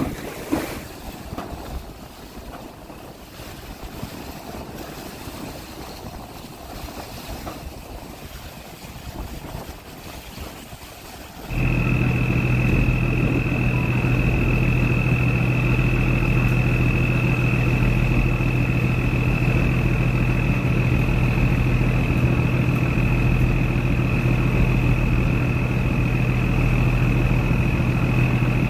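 Wind and water noise at first. About a third of the way in, a boat engine's steady drone starts abruptly and runs evenly, with a thin high whine over it.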